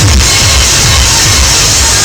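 Loud electronic dance music played at high volume through a sonidero sound system stacked with bass cabinets, the bass pulsing heavily.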